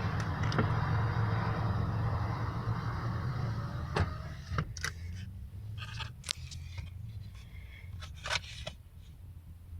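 A motor vehicle running, a steady low hum with a hiss over it that fades away over the first four seconds, followed by a few sharp clicks and knocks.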